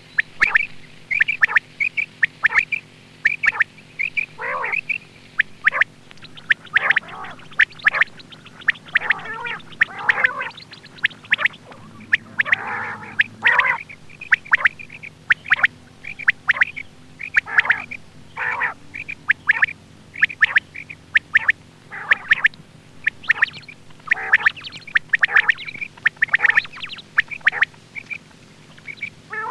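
Quail calling: short, sharp calls repeated in quick, uneven runs, with a few longer rasping calls partway through, over a faint steady hum.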